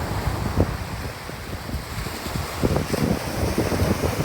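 Wind buffeting the microphone over the steady wash of surf on a beach, with the gusts growing stronger about two and a half seconds in.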